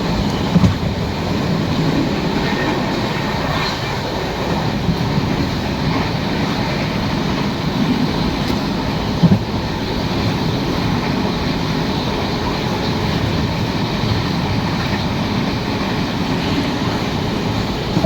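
Train running: a steady rumble and wheel noise, with a sharp knock just under a second in and another about nine seconds in.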